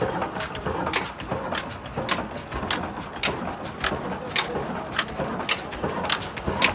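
Heavy old stationary diesel engine running at low speed, giving an even clacking beat of about three to four knocks a second over a steady rumble.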